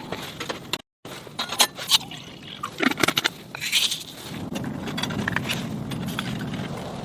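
A series of small hard clinks and knocks, like objects being handled and set down, broken by a short cut to silence about a second in. From about four seconds in, a steady rushing noise, like fire or sizzling, takes over.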